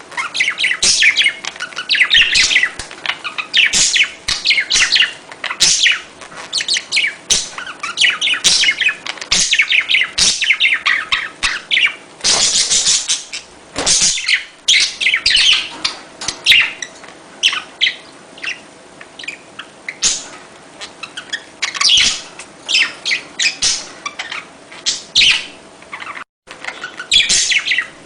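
A flock of budgerigars chattering, with fast, overlapping chirps and warbles that keep up without a break. The sound cuts out for an instant near the end.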